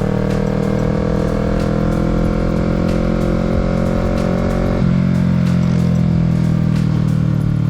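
Kawasaki Z650's parallel-twin engine running on the road, its pitch slowly falling, with a sudden change in its note about five seconds in.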